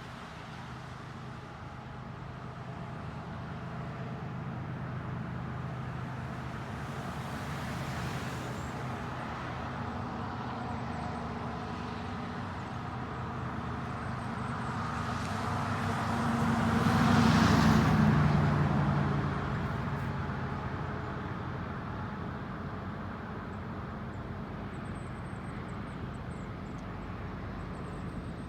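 Diesel engines of a lashed-up set of GE freight locomotives running with a steady low drone as the train approaches, growing loudest as the lead units pass about 17 seconds in, then settling to a lower steady rumble.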